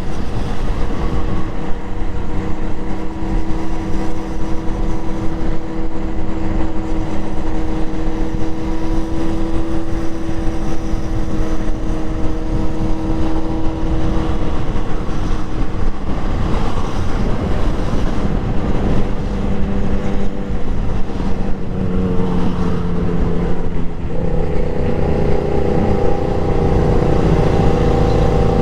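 Motorcycle engine running at a steady cruise under heavy wind and road noise, its pitch shifting about halfway through and settling at a new steady pitch near the end as the speed changes.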